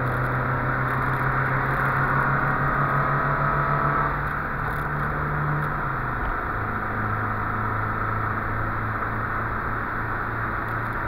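Volvo 144S four-cylinder engine heard from inside the cabin, pulling steadily along the track with tyre and road noise. The note eases about four seconds in, then drops to a lower steady pitch about six seconds in and holds there.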